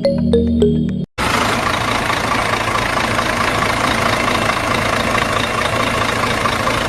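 Electronic background music for about a second, cut off abruptly, then a steady mechanical running noise from a small motor.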